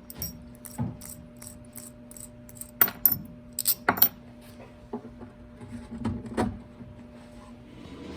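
A run of light metallic clinks and rattles, with a few sharper knocks about three to four seconds in and again near six seconds: small metal parts and hardware being handled.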